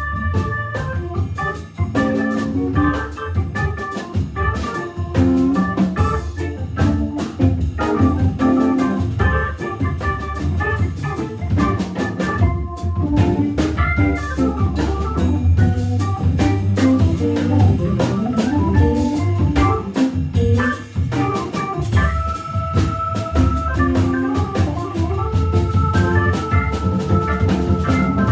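Hammond B3 organ through a Leslie speaker playing a jazz-funk passage, quick runs of notes over held chords, with a walking bass line and a drum kit keeping time; late on the organ settles into longer held chords.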